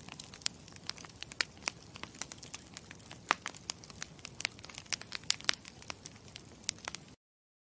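Campfire crackling: irregular sharp pops and snaps of burning wood over a soft steady hiss, stopping abruptly near the end.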